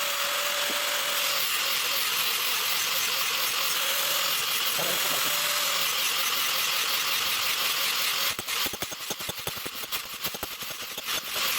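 Power grinder grinding the steel of a sickle blade, a steady hiss with a faint whine, for about eight seconds; then it gives way to rapid, irregular scraping strokes on the metal.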